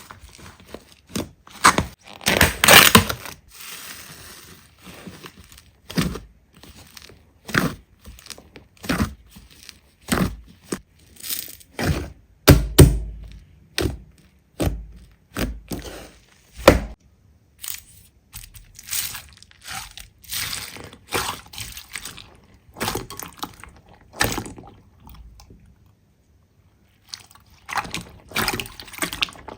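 Slime being handled by hand: an irregular run of sticky clicks, snaps and crackling pops, one to a few each second, with a short pause near the end.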